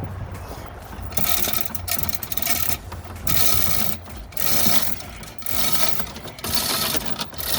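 Hand-operated hoist being worked in repeated strokes as it lifts a jet-ski engine, a rasping rattle about once a second.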